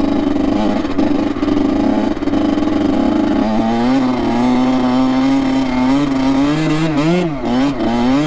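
Two-stroke Honda CR85 dirt bike engine running under way at a high, steady pitch, dropping to a lower steady pitch about three and a half seconds in, then revving up and down several times near the end.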